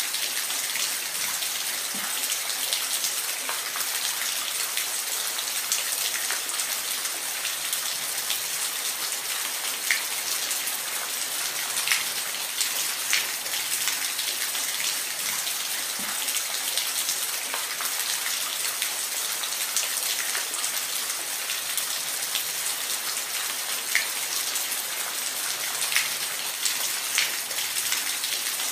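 Falling water: a steady rushing hiss with scattered sharper splashes and drips every second or two.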